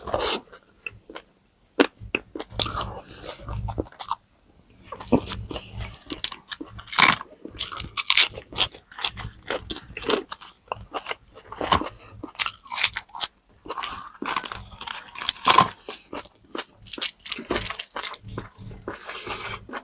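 Close-miked eating: crunchy bites and chewing of crispy deep-fried pork knuckle skin, with irregular sharp crackles between short pauses.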